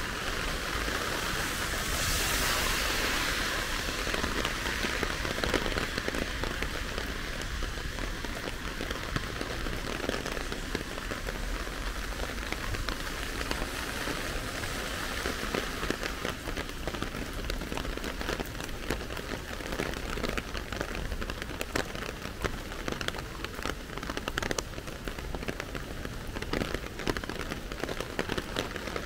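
Heavy rain falling on hard surfaces: a steady hiss with many sharp drop ticks, which grow denser about halfway through.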